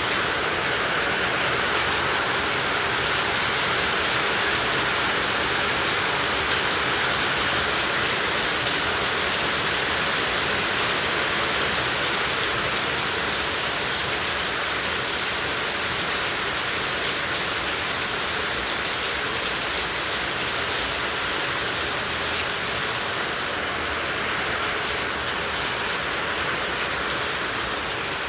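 Heavy rain pouring down steadily, a dense even hiss of drops.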